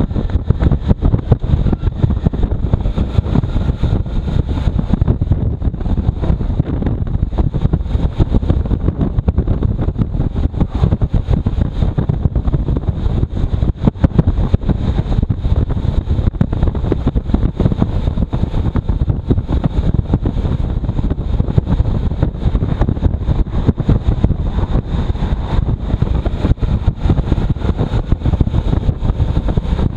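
Heavy, steady wind buffeting the microphone on a moving motorcycle, with the bike's running and road noise underneath.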